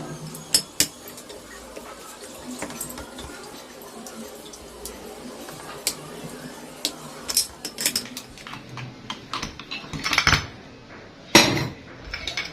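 Metal tools and parts of a car AC compressor's pulley assembly clinking and knocking during removal. Scattered light clicks, with a couple of louder metal knocks near the end.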